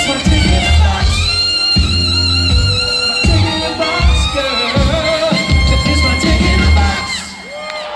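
Live band playing an instrumental passage, with heavy rhythmic bass notes under sustained melodic lines; the music thins out and drops in level near the end.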